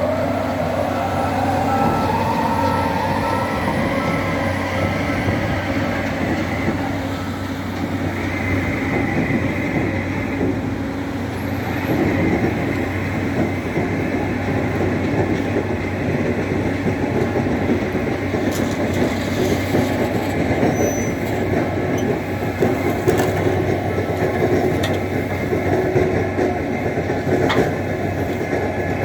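Tractor shovel loader's diesel engine running steadily, its pitch rising over the first few seconds, with faint metallic clicks and knocks later on.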